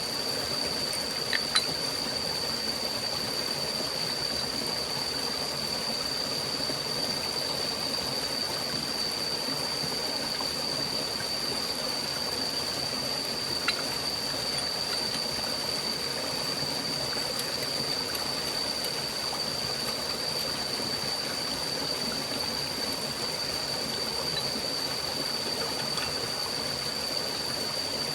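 Forest stream flowing steadily, an even rush of water, with a constant thin high-pitched whine over it. A few small clicks sound near the start and about halfway through.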